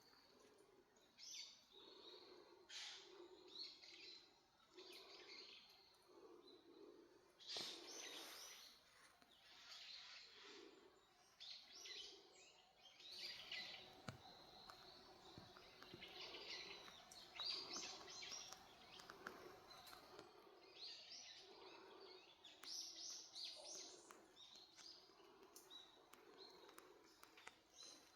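Faint wild birds chirping and calling on and off, with short high notes scattered throughout, over quiet forest ambience.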